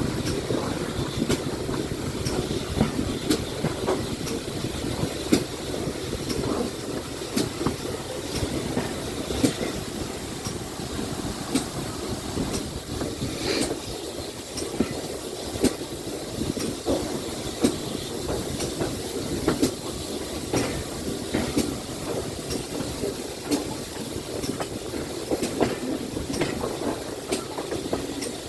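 Steam-hauled train running along the line, a steady rumble with sharp clicks about once a second.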